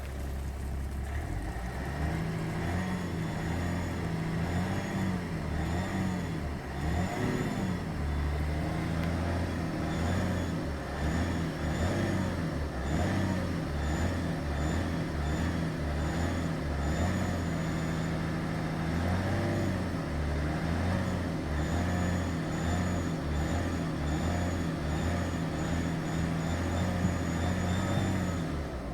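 BMW E60 525d straight-six diesel engine running, with a thin high-pitched whistle that keeps coming and going over the engine noise.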